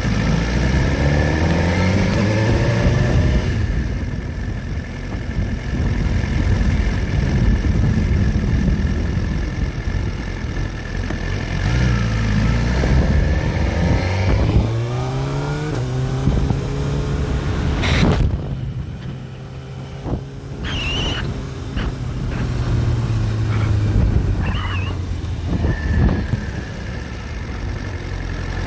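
A road vehicle's engine running and accelerating, its pitch rising and falling as it pulls away and changes speed, with a sharp click about two-thirds of the way through and a couple of brief high squeaks near the end.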